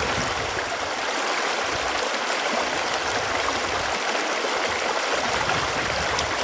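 Running water flowing steadily: an even, continuous rush.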